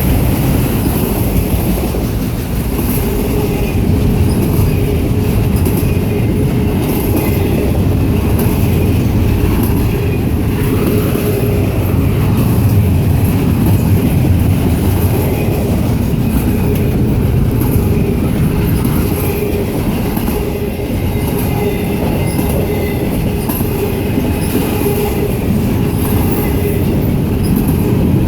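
Freight train rolling past on steel rails: a steady, loud rumble of wheels on track with thin, high wheel squeal running through it.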